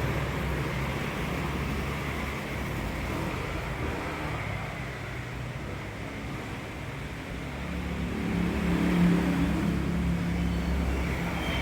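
Low rumble of a running motor vehicle engine. About eight seconds in a pitched engine hum swells louder, then eases off.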